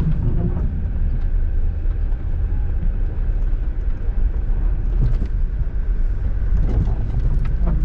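Off-road 4x4 driving slowly along an icy, snowy trail: a steady low engine and road rumble, with a few faint clicks.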